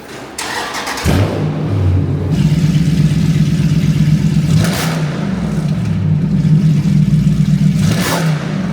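A motor vehicle's engine comes in loudly about a second in and keeps running with a steady low drone, with brief flares of hiss about five and eight seconds in.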